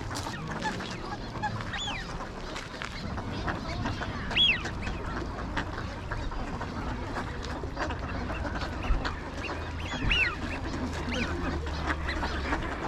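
A large flock of wild ducks calling: continuous chatter with several short, high calls that rise and fall in pitch, the loudest about four and a half seconds and ten seconds in.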